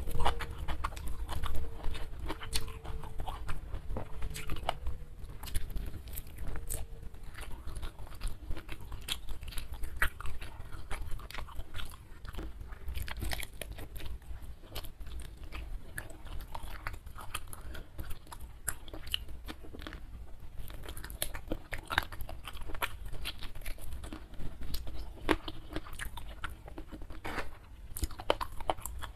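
Close-miked eating of spicy smashed fried chicken wings and rice by hand: steady chewing with frequent small crunches and mouth clicks.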